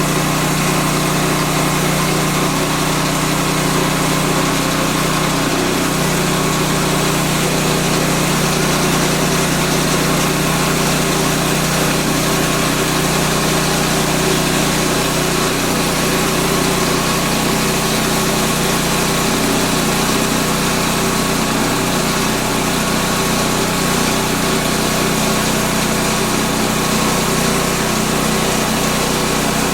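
Small gasoline engine of a Woodland Mills portable band sawmill running steadily at an even speed.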